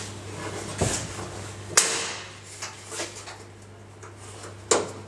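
Stainless grille trim strip being pushed onto its retaining clips: four sharp clicks and snaps, the loudest about two seconds in with a brief metallic ring.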